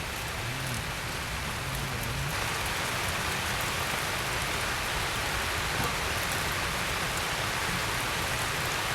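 Steady heavy rain hissing and pattering down, growing a little denser about two seconds in.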